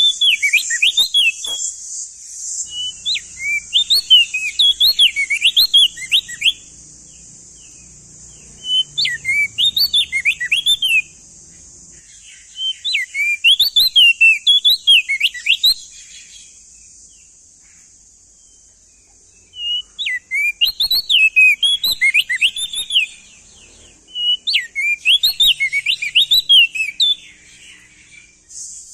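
Male opior jambul (crested dark-eye) singing loud bouts of quick up-and-down whistled notes, each bout a few seconds long with short pauses between, over a steady high hiss.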